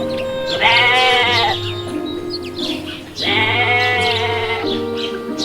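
Sheep bleating twice, each a long quavering call, over background music.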